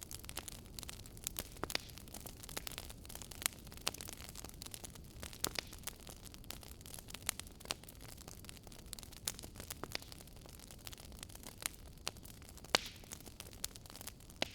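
Wood fire crackling in a fireplace: irregular sharp pops and snaps, several a second at times, over a low steady hiss.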